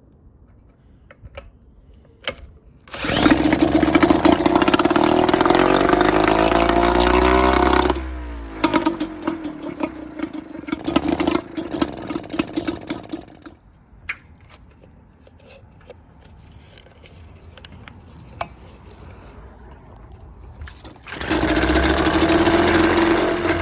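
British Seagull Silver Century Plus single-cylinder two-stroke outboard, running on its first start in about ten years. A few seconds in it fires and revs up, then drops to a lower, uneven run and dies. After several quiet seconds it fires again and runs near the end.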